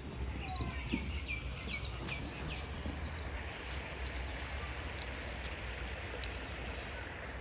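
Birds chirping in short falling notes for the first couple of seconds, over a steady low rumble. A steady hiss and a few sharp clicks follow.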